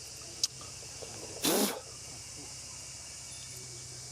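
Steady high buzzing of insects. A sharp click comes about half a second in, and a short, loud, harsh burst of noise follows about a second and a half in.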